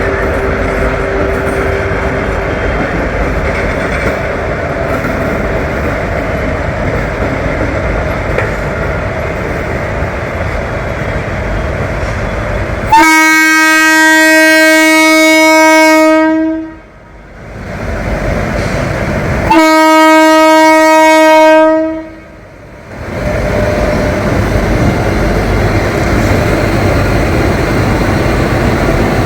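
Indian Railways train running with a steady rumble, then two long blasts of the locomotive horn on one steady note, the first about three and a half seconds, the second about two and a half seconds, a few seconds apart.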